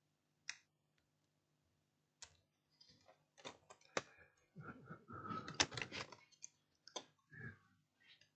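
Faint, scattered clicks and rattles of laptop parts being handled as a motherboard is fitted back into a laptop chassis, busiest in the middle, with a brief faint squeak a little after five seconds in.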